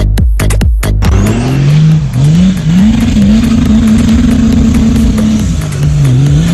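Electronic dance music with a hard beat for about the first second, then cut to an off-road 4x4's diesel engine revving hard under throttle: the revs climb and drop a few times, hold high for about two seconds, then dip and climb again near the end.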